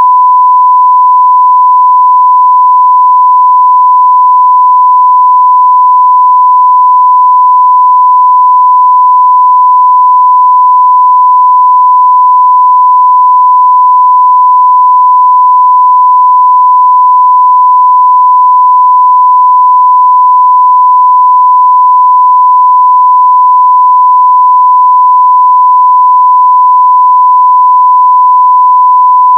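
Steady 1 kHz sine-wave test tone at full scale (0 dB): one pure, unchanging high beep.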